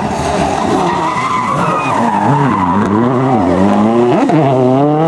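World Rally Car's turbocharged four-cylinder engine revving hard through a corner sequence, over a steady rushing noise. The revs drop sharply several times around the middle, then climb steadily near the end as it accelerates away.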